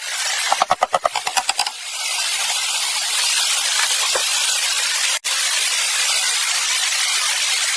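A fast run of rhythmic rasping strokes, about eight a second, stops a little under two seconds in. A steady hiss follows, with a split-second break about five seconds in.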